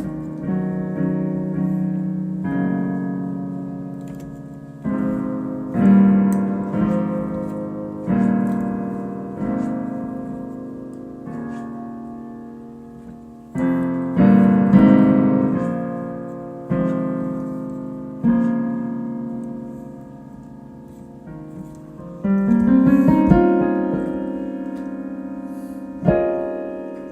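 Piano playing an improvised piece of slow chords, each struck and left to ring and fade, with a quick rising run of notes about 22 seconds in and a fresh chord near the end.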